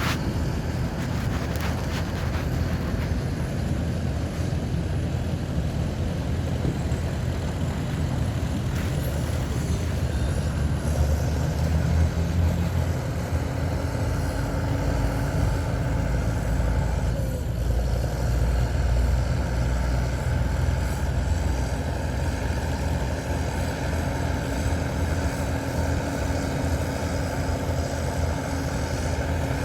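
Heavy diesel engines of a bulldozer and dump trucks running steadily, a low rumble that grows heavier twice partway through. A few clicks sound near the start.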